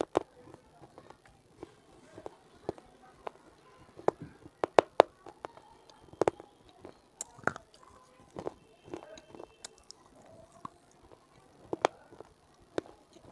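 Close-miked chewing of hard clay chunks: irregular sharp crunches and bites, with the loudest cracks around four to five seconds in and again near twelve seconds.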